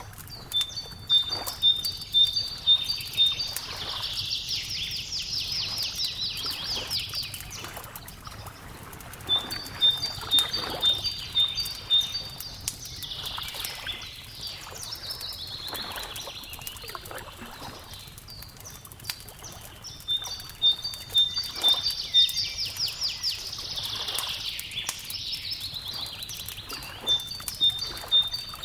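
Wood fire crackling with scattered small pops while a songbird repeats its song about every nine or ten seconds. Each song is a quick run of clear high notes that ends in a buzzy trill.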